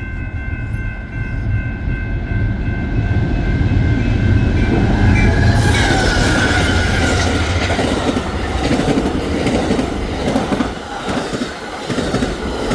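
Amtrak passenger train with a P42DC diesel locomotive passing at speed. A steady multi-note horn chord sounds over the deep rumble for about the first five seconds. Then come the rush and clickety-clack of Superliner bilevel cars going by, with a short wheel squeal about halfway through.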